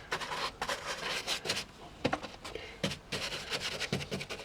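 Toilet paper rustling and rubbing as it is handled and pressed onto glue-covered foam scenery: a string of short, irregular scratchy rubs and taps.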